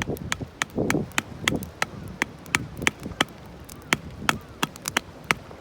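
A small hatchet (nata) striking knotty firewood in quick, sharp, clacking taps, about three a second, as thick pieces are split down into smaller ones.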